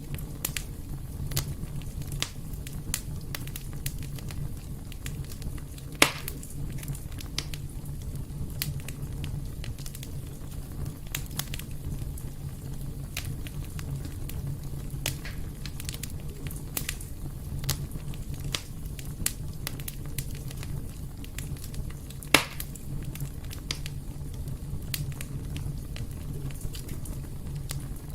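Wood fire burning in a fireplace: a steady low rumble with irregular crackles and snaps, and two louder pops, one about six seconds in and one near the end.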